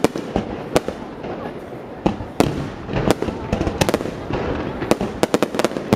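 Fireworks exploding overhead in irregular bangs and cracks, thickening to a quick rattling string of reports in the second half.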